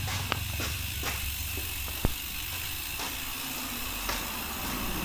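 Water spraying onto a bicycle as it is rinsed: a steady hiss with a low rumble beneath, broken by a few light clicks, one sharper about two seconds in.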